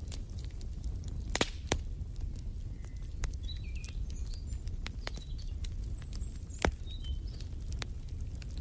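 Wood fire in a fireplace crackling over a low steady rumble, with sharp pops, the loudest about a second and a half in and again near the seven-second mark. Faint high bird chirps come between the pops.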